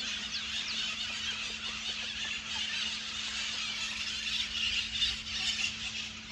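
A flock of maritacas (parrots) screeching and chattering continuously in a tree, many shrill overlapping calls, over a faint steady hum.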